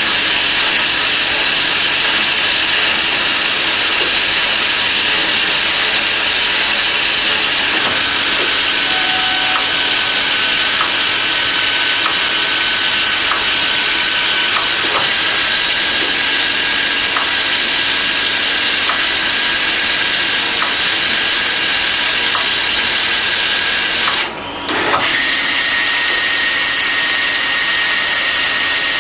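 CNC lathe turning metal with a carbide insert, a loud, steady, hissing machining noise. It breaks off briefly about three-quarters of the way through, then carries on.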